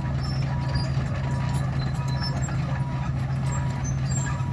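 Komatsu D61 bulldozer's diesel engine running steadily, with its reverse alarm giving short beeps about twice a second: the machine is backing up.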